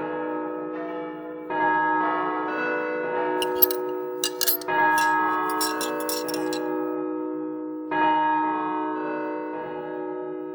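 Deep bell chimes in the cartoon soundtrack: a ringing chord struck three times, about three seconds apart, each one sustaining and slowly fading. A few quick sharp clicks come just before the second strike.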